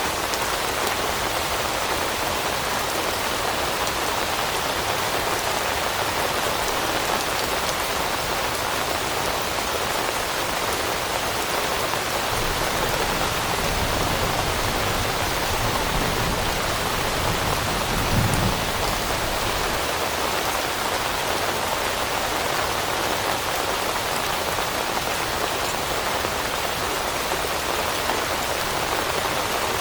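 Steady rain pattering on leaves, an even hiss with no break. A low rumble swells and fades past the middle.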